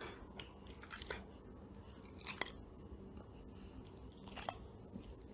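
Faint chewing: a few irregular crunching clicks, the loudest about two and a half seconds in.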